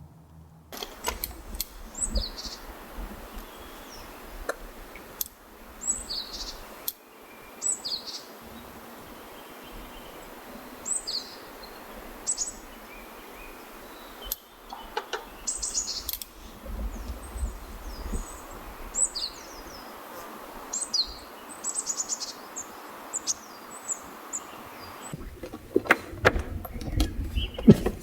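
Wild small birds chirping: short, high, down-sweeping calls repeated throughout, over a low rumble that comes and goes. Several sharp clicks near the end.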